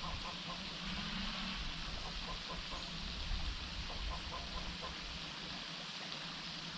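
Steady outdoor nature ambience: an even hiss with faint scattered ticks and a low rumble underneath.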